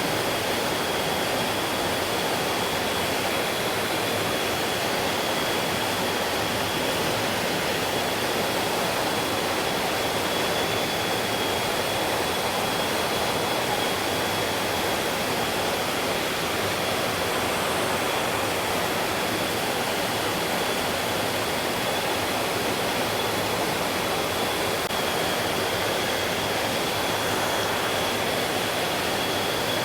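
Stream water rushing steadily and evenly, with no breaks or changes. A thin, steady high-pitched tone runs along with it the whole time.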